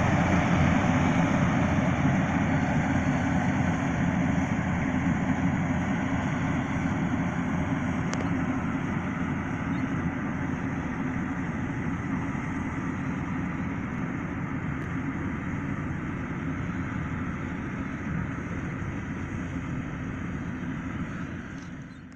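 Rice combine harvester running steadily, a dense mechanical noise from its engine and machinery that slowly grows quieter, then cuts off suddenly at the very end.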